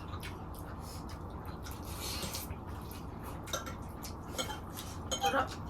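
Light clicks and clinks of dishes and cutlery during a meal, scattered and more frequent in the second half, over a steady low hum.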